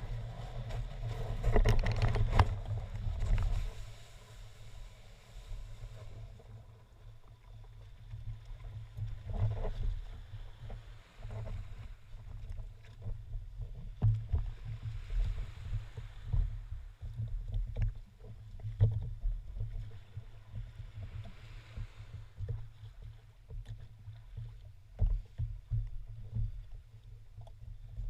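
Small boat on the water: an uneven low rumble with irregular knocks and splashes, louder for a couple of seconds near the start.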